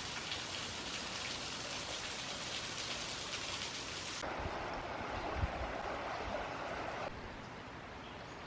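Steady rushing noise like running water, with no tone in it; its character changes abruptly twice, about four and seven seconds in.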